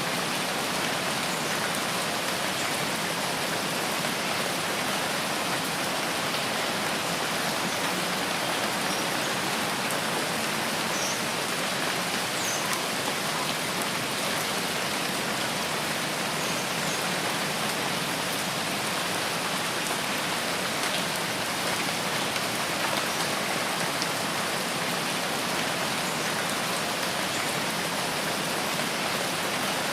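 Steady rain falling: a continuous, even hiss of many drops that holds at one level throughout.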